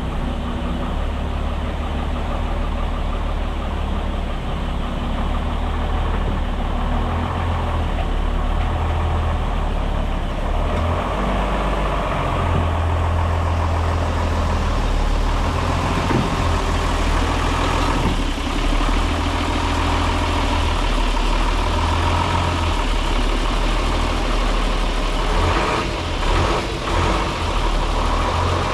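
Diesel engines running at low revs as a Unimog is driven up the ramps onto a trailer. The engine note rises and falls through the manoeuvre, with a few knocks late on.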